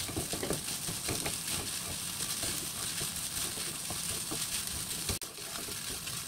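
Fried rice sizzling steadily in a wok on a gas burner, with a wooden spatula scraping and tapping against the pan as it is stirred and tossed.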